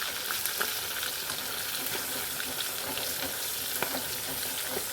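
Pieces of fish frying in hot oil in a pan, a steady sizzle with a few small pops and ticks.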